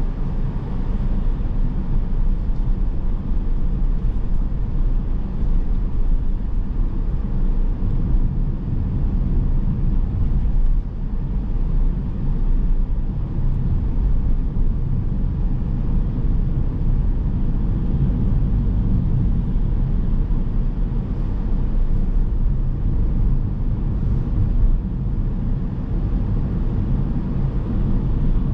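Car driving along town streets: a steady low rumble of engine and tyre noise.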